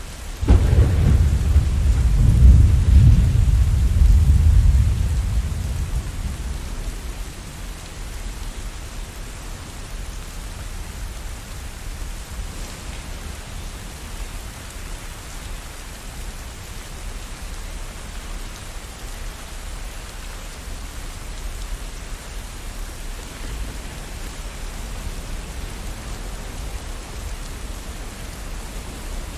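Steady rain with a roll of thunder: a deep rumble breaks in about half a second in and dies away over the next several seconds, leaving the even hiss of rain.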